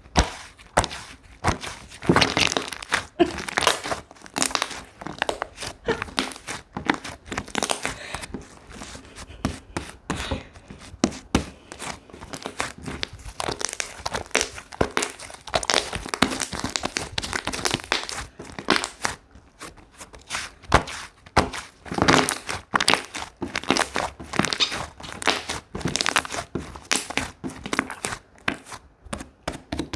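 Slime being squished, stretched and poked by hand, with dense, irregular crackling and popping.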